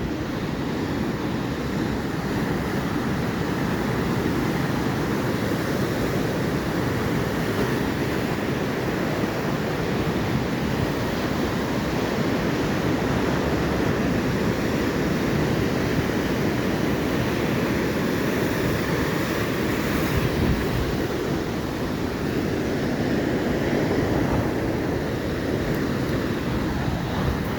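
Ocean surf: waves breaking and washing up the shore in a continuous rush that swells and eases gently.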